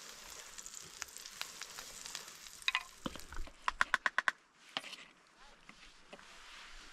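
Food sizzling and crackling in a frying pan, which fades out about halfway through. It is followed by a quick run of about eight sharp clicks, then a single click.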